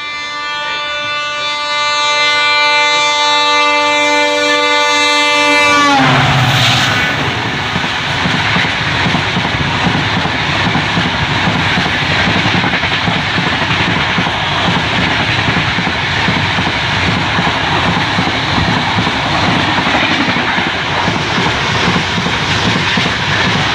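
An Indian Railways express train's horn sounds as it approaches, growing louder, and its pitch drops sharply as the locomotive passes about six seconds in. Then the coaches rush and clatter past at high speed.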